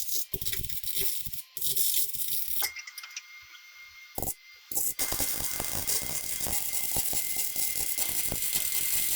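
Metalworking on flat steel: irregular bursts of clatter and scraping, then about five seconds of steady, dense crackling noise that cuts off suddenly near the end.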